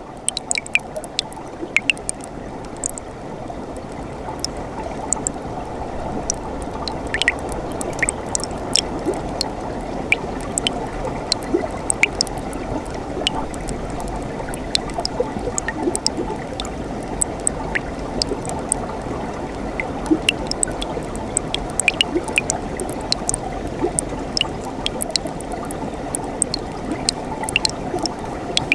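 Mountain stream in winter, water flowing and gurgling over rocks in a steady rush, with many small splashes and drips.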